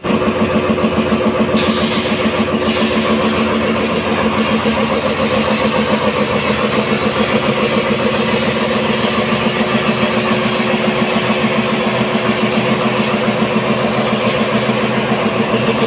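An engine running steadily at idle with an even, fast pulsing beat; two short hisses come about two seconds in.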